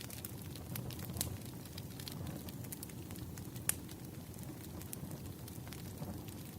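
Bonfire crackling: irregular sharp pops and snaps over a steady low rumble, with one pop louder than the rest a little past halfway.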